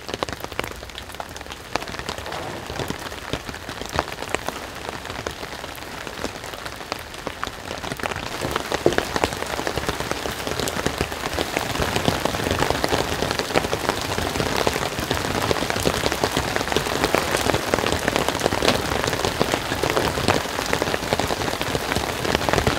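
Heavy rain falling on a wet wooden deck: a dense, even patter of drops that grows louder about eight to ten seconds in.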